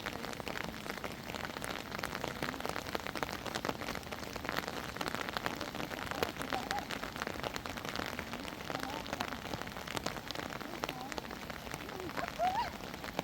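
Steady rain falling on a surface, heard as many separate drop hits.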